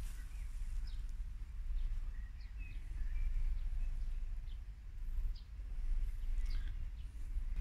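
Faint, scattered bird chirps over a low, uneven rumble on the microphone.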